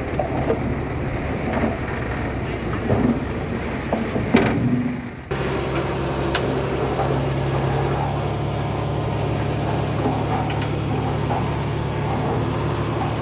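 Diesel engine of heavy earthmoving machinery running steadily, with a few knocks in the first part. About five seconds in the sound changes abruptly to a steadier engine drone.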